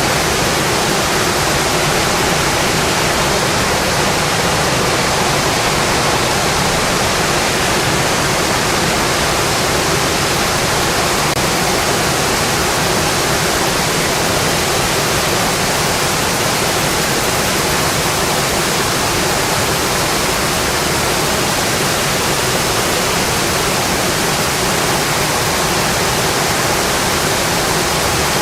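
Steady heavy rain on a metal roof: a dense, even hiss that does not let up.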